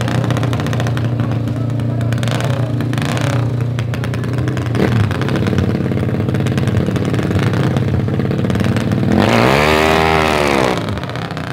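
Motorcycle engines running at the drag strip's start line, with a couple of short throttle blips. About nine seconds in, a drag-racing motorcycle revs up hard and drops back down over about a second and a half.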